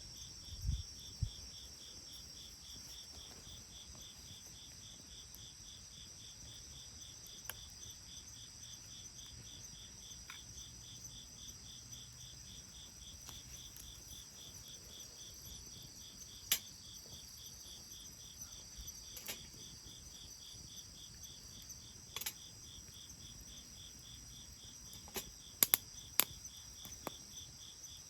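Crickets or other insects trilling steadily in a fast, even pulse. Over it, sharp pops of a wood fire crackling come every few seconds, several close together near the end.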